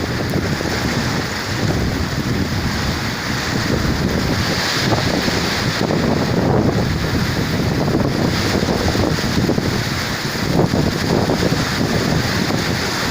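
Very strong storm wind, 30–35 m/s, blasting across the microphone: a loud, steady rush of wind noise with small gusts.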